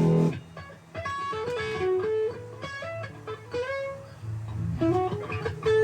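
A full-band chord with a cymbal rings out and stops shortly after the start. A guitar then plays a string of single picked notes.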